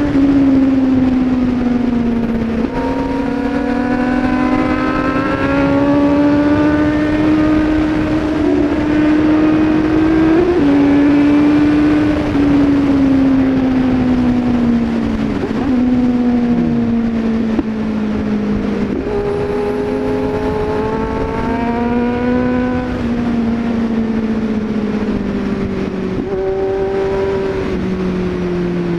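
Car engine running while driving. Its pitch climbs slowly under acceleration and drops abruptly at several gear changes.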